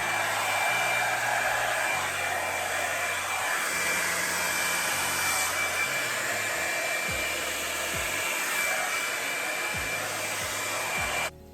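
Revlon One-Step hot-air dryer brush running steadily, a rushing blow of air with a thin steady whine in it. It cuts off abruptly near the end.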